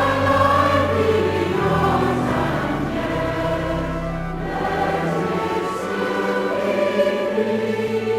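Choir singing a hymn, with sustained chords and no speech.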